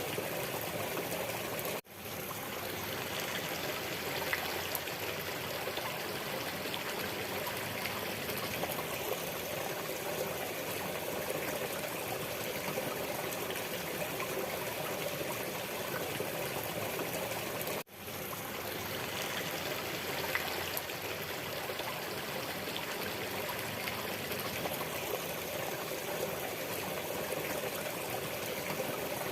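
Waterfall water rushing steadily in a continuous hiss and splash. About two seconds in, and again about eighteen seconds in, the sound cuts out almost to silence and then swells back up.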